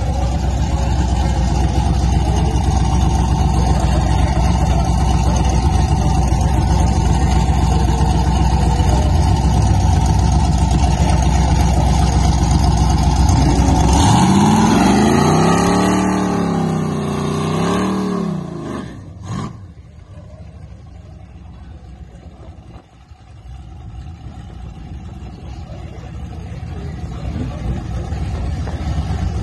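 Drag-racing 1974 Oldsmobile Omega with Holley Sniper fuel injection, its engine held at high, steady revs for a long stretch, as in a burnout. About halfway through it drops to a low, lumpy note whose revs rise and fall. After a sudden drop in level, a quieter engine sound slowly builds toward the end.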